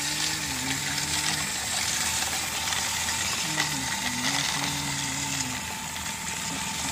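Small electric motors and gears of toy tractors and cars whirring steadily with a rattly, grinding edge. A voice hums or sings briefly near the start and again midway.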